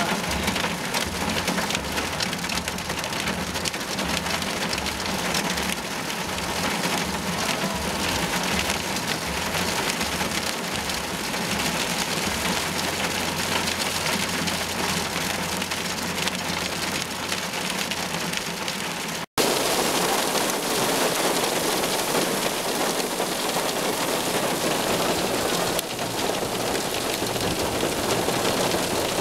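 Heavy rain beating on a storm chaser's vehicle, a dense steady hiss. A brief dropout comes about two-thirds through, after which the rain noise is louder.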